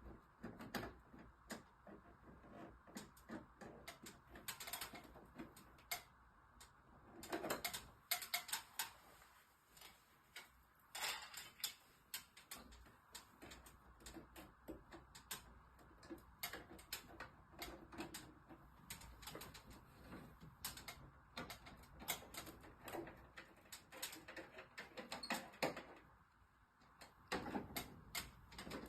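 Faint, irregular clicks, taps and short rattles of hands and small tools working on an air conditioner's indoor unit while its control board is being replaced.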